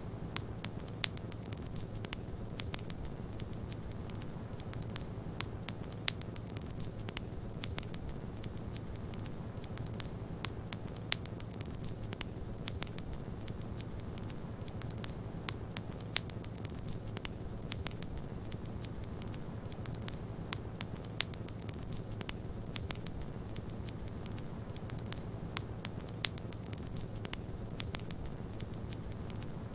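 Wood fire crackling in a fireplace, with frequent sharp pops over a steady low rumble.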